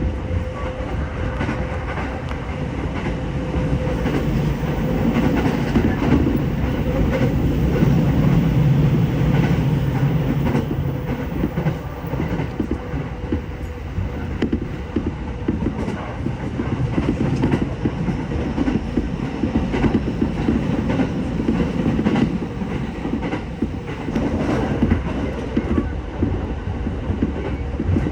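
Electric commuter train heard from inside the carriage while running: a steady rumble of wheels on rail with repeated clacks over rail joints. A steady tone fades out after a few seconds, and the rumble grows louder for several seconds before easing.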